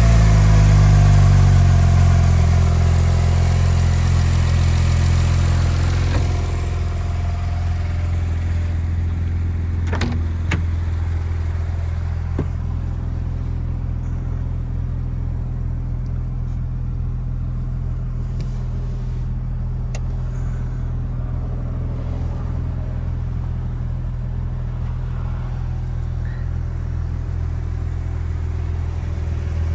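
2008 Porsche 911 Turbo's twin-turbo 3.6-litre flat-six idling just after a cold start, louder for the first six seconds or so, then settling to a steady idle. A few light clicks are heard about ten and twenty seconds in.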